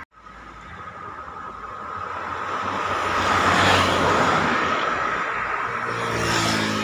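Road traffic passing close by: a vehicle goes past, loudest about halfway through, and another vehicle's engine builds up near the end.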